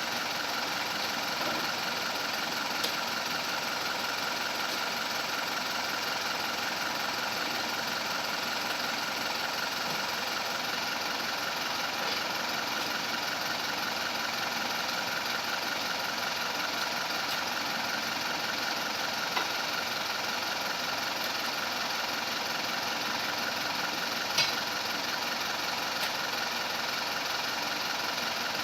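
Mitsubishi Canter truck's diesel engine running steadily at idle, with a few light clicks about three, nineteen and twenty-four seconds in.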